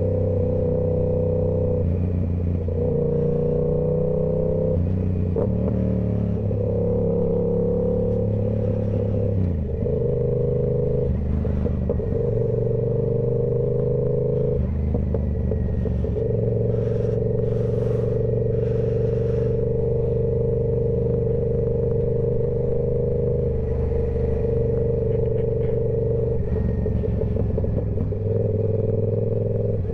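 A 2023 Yamaha YZF-R7's 689 cc parallel-twin engine breathing through a Toce full exhaust system, running steadily at part throttle. Engine speed shifts slightly every few seconds.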